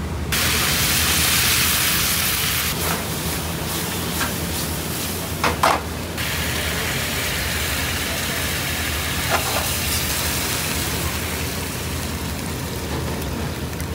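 Food frying in hot oil or on a hot pan: a loud, steady sizzling hiss that starts suddenly just after the beginning and eases a little about six seconds in, over a steady low hum.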